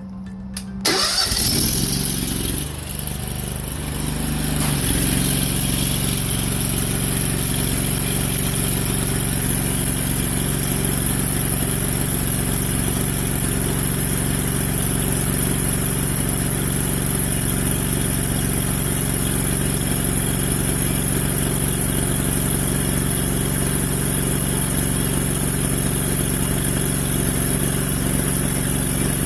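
Gas engine of a pressure washer picking up sharply about a second in, with shifting tones, then settling by about five seconds into a steady loud run under load with a steady high hiss, as the machine is run to test the rebuilt downstream injector.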